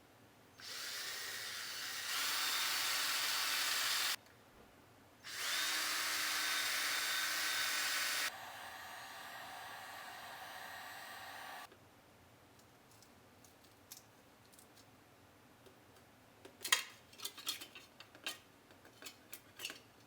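Power drill drilling out the rivets that hold the badge plate on a Yoshimura motorcycle exhaust: two runs of drilling, the second easing off to lighter running before it stops. Small clicks and taps follow near the end.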